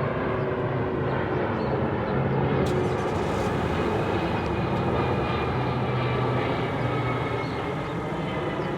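Twin-engine jet airliner on landing approach: a steady engine rush with a faint whine that drifts slightly down in pitch.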